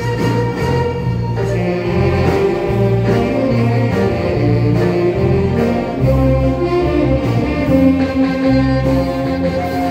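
A band playing music: a held, gliding melody line over a steady bass that steps from note to note.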